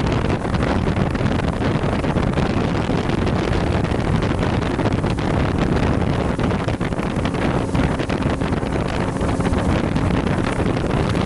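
Steady wind buffeting the microphone aboard a boat, with a low rumble underneath.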